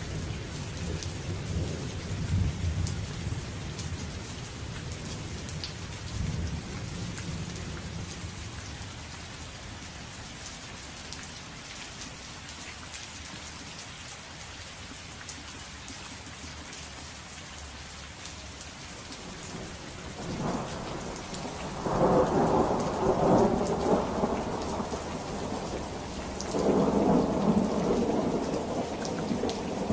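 Steady rain falling, with thunder. A low rolling rumble fades over the first several seconds, then two louder peals of thunder come about two-thirds of the way through and near the end.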